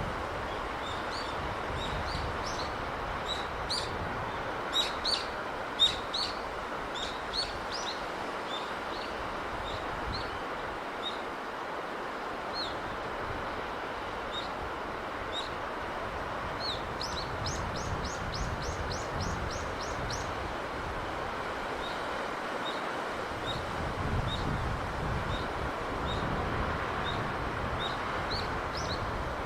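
Small birds chirping repeatedly over a steady rush of sea breeze and surf. About seventeen seconds in, one bird gives a quick run of about ten high notes.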